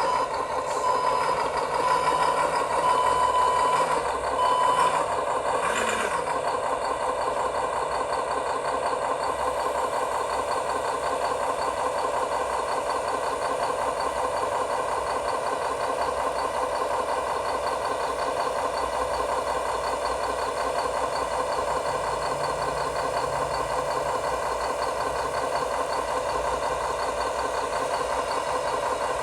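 RC construction machinery running steadily with an engine-like mechanical drone, with a brief on-off tone in the first few seconds.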